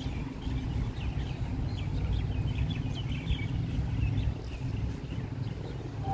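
Birds chirping in many short, quick calls over a low steady rumble; the chirping thins out about four to five seconds in.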